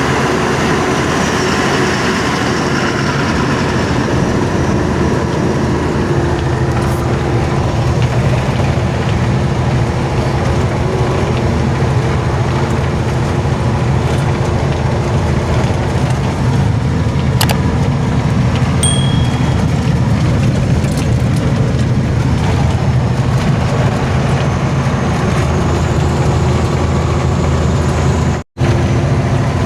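Truck on the move along a highway: steady engine rumble mixed with road and wind noise, with a brief dropout near the end.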